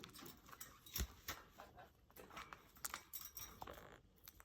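Faint scattered clicks and light metallic taps from pet parrots climbing and beaking at a wire cage and its small clips.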